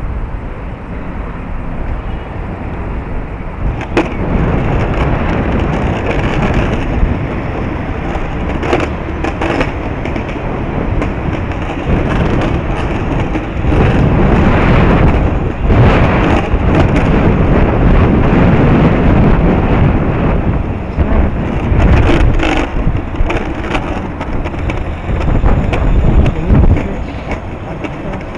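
Strong wind buffeting the microphone over a rolling ride's rumble, with many sharp clicks and knocks scattered through it.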